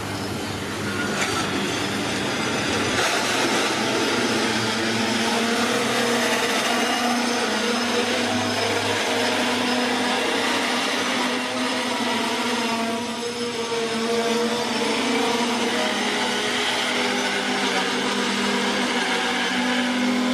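Container freight train's wagons rolling past on the rails: a steady rumble of wheels and rail noise with a droning hum of steady tones.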